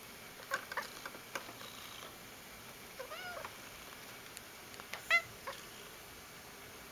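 Domestic cat making short, chirpy vocal noises: a few quick chirps near the start, an arched meow-like call about three seconds in, and a brief, louder sharp call about five seconds in.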